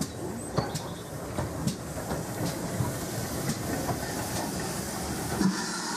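Carriage wheels running slowly over the track with a low rumble and irregular clicks and knocks. About five and a half seconds in the rumble drops away and a steady steam hiss from the steam locomotive alongside comes up.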